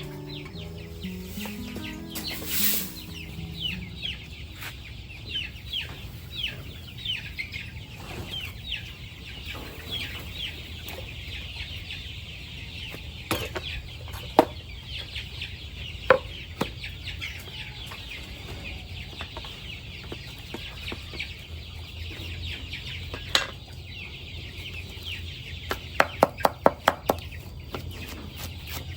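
A flock of chickens clucking and giving many short, high, falling peeps. A few sharp knocks come in the middle, and a quick run of about eight taps near the end.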